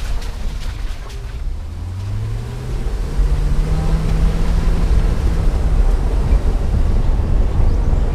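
Car engine accelerating: its note rises a second or two in, then holds steady and louder as it drives on, under a heavy low rumble of wind on the microphone.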